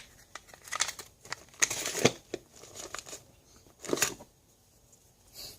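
Hand tools being handled and taken out of a tool bag: rustling with scattered light clicks and clinks, loudest about two seconds in and again about four seconds in.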